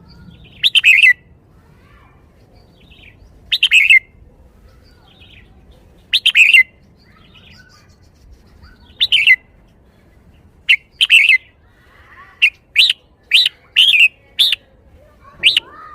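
Red-whiskered bulbul singing loud, short phrases. At first they come about every three seconds, then quicker from about two-thirds of the way in, ending in a run of brief notes about half a second apart.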